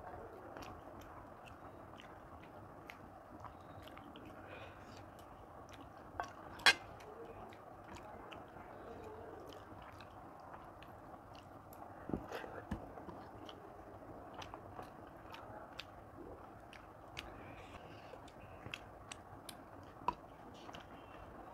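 Close chewing and mouth sounds of a person eating rice and chicken curry by hand, picked up by a clip-on microphone, with frequent small clicks and a sharper click about six and a half seconds in.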